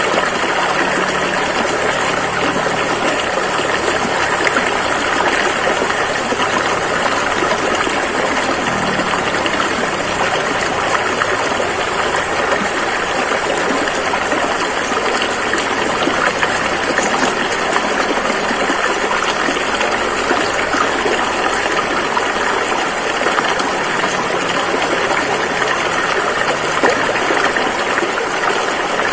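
Rushing river: fast-flowing water making a steady, loud, unbroken rush.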